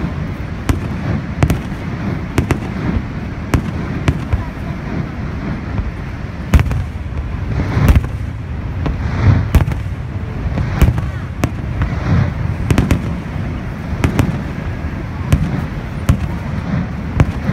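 Aerial firework shells bursting in an irregular series of sharp bangs, one every second or so, over a constant low rumble.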